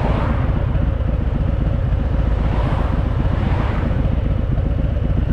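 Harley-Davidson Fat Boy's V-twin engine running steadily on the move, a continuous low rumble mixed with wind noise.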